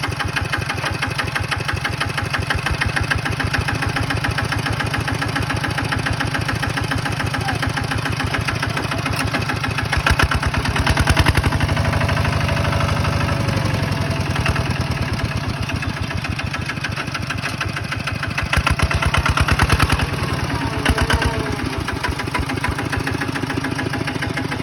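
Tractor diesel engine running steadily, labouring louder twice under load (about ten seconds in and again near twenty seconds) as the machine works while bogged in mud.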